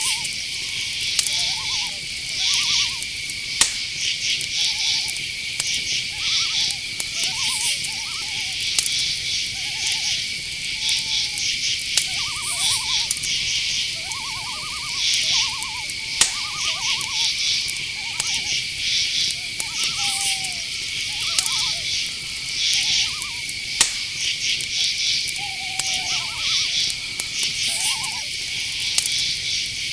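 Night-forest chorus of crickets: a steady high chirring with pulsed chirps above it. Through it come many short, mid-pitched calls of another animal at irregular intervals, a second or two apart.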